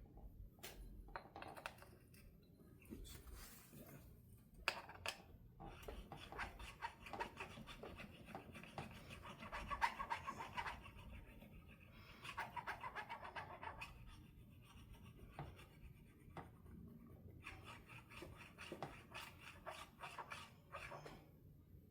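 Faint, quick back-and-forth scraping of a file working a guitar's fret ends, in several runs of rapid strokes with short pauses between, dressing the fret edges smooth and rounded.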